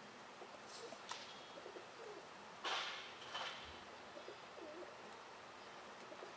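Faint bird cooing in a large quiet barn, broken by a few short hissing noises; the loudest hiss comes nearly three seconds in.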